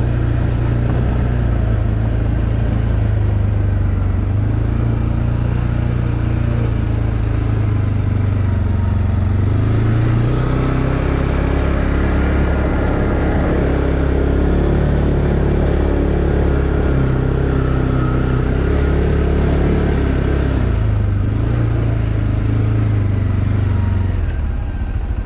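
2020 Arctic Cat Alterra 700 ATV's single-cylinder engine running under way, its pitch rising and falling with the throttle. Near the end it drops back to a steady idle.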